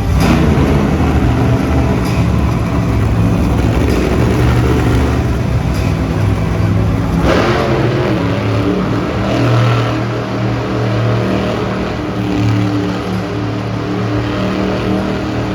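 Monster truck engine running and revving, its pitch and level rising and falling, with a brief louder surge about seven seconds in.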